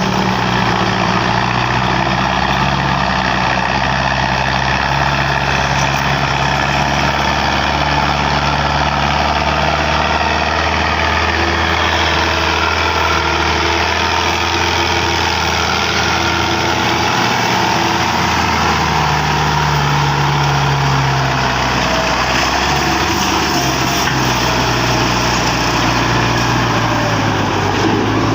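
Belarus 510 tractor's diesel engine running steadily, its pitch shifting a little now and then.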